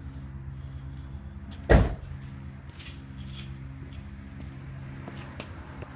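2008 Pontiac Solstice's 2.4-litre four-cylinder engine idling steadily through its stock exhaust, with a single loud thump a little under two seconds in.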